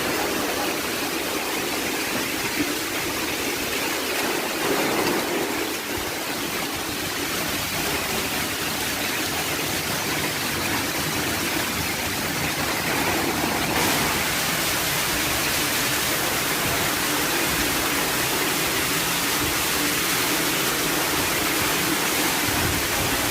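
Heavy rain pouring, with rainwater running down stairs like a waterfall: a steady, dense rush of water.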